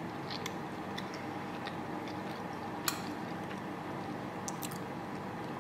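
Faint closed-mouth chewing of a soft waffle over a steady low room hum, with scattered small clicks and one sharper click about three seconds in.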